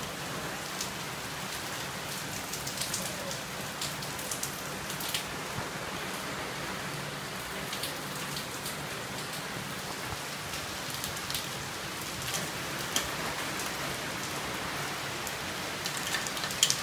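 Heavy rain falling steadily on surfaces, with scattered sharp ticks through it that sound like very tiny hail.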